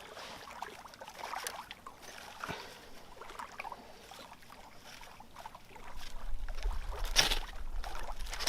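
A few short, thin scrapes of a knife spine drawn down a ferrocerium rod to throw sparks, the last and loudest about seven seconds in. The spine is rounded and strikes poorly. From about six seconds a low wind rumble sits on the microphone.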